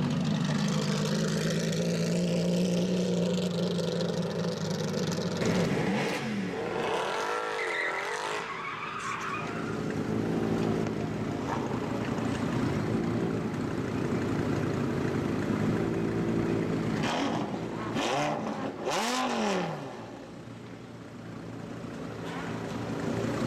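Sports car engines revving and accelerating, their note rising and falling several times, with two strong sweeps in pitch.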